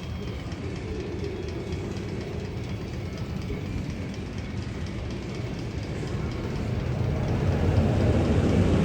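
Magnum XL 200 coaster train rumbling along its steel track with a light clicking, growing louder over the last couple of seconds.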